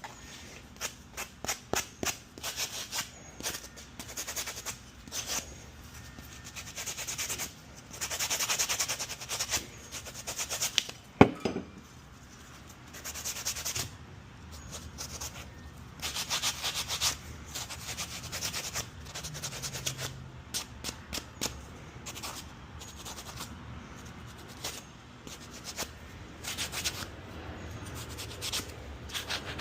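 Hand sanding with a sanding block, scrubbing a burned part clean before it is repainted: runs of quick back-and-forth scraping strokes with short pauses between them. A single sharp knock about eleven seconds in.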